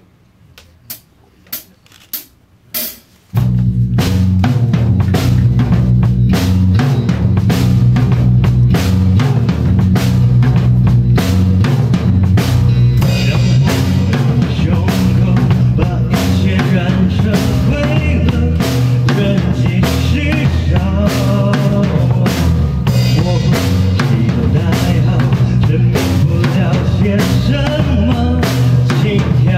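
A few evenly spaced stick clicks count in. About three seconds in, a live band starts the song together on drum kit and bass, with a steady beat from then on.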